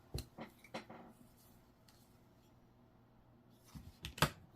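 A few light clicks and taps: several in the first second, then a quiet stretch, then a short cluster near the end.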